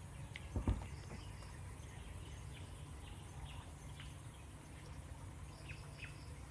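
Outdoor tropical ambience: scattered short bird chirps and a faint steady insect buzz over a low steady rumble, with a brief knock about half a second in.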